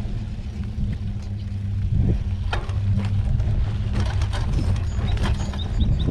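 Mountain bike rolling along a dirt trail: steady low rumble of tyres and wind on the microphone, with scattered clicks and rattles from bumps. A run of short, quick high chirps comes near the end.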